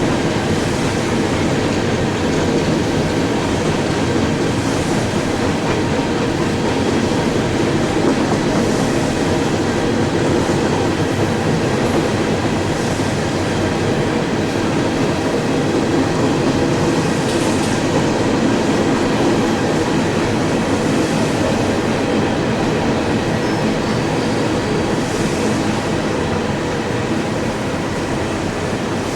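CSX freight train's cars rolling past, a steady loud noise of steel wheels on the rails with faint high streaks every few seconds.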